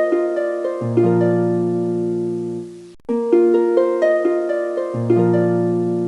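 Background music: a short harp-like phrase of plucked notes climbing over a held low chord, looping about every four seconds with a brief break between repeats.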